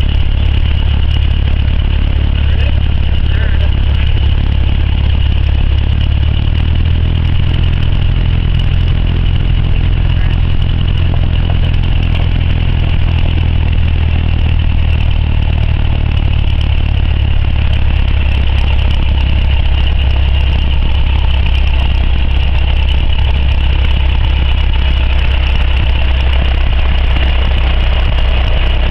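Cessna 172's piston engine and propeller droning steadily, heard inside the cabin; the drone steps up slightly in pitch about six or seven seconds in.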